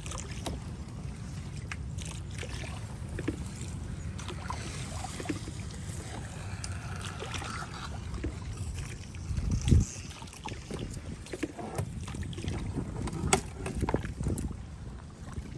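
Kayak on the move: paddle strokes and water sounds with small knocks and ticks against the hull, over a steady low wind rumble on the microphone. One louder hollow thump comes about ten seconds in.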